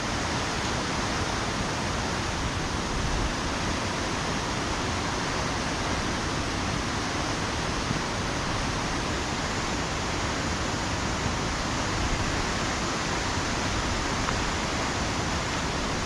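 Steady, even rushing of heavy rain and running water, unbroken throughout.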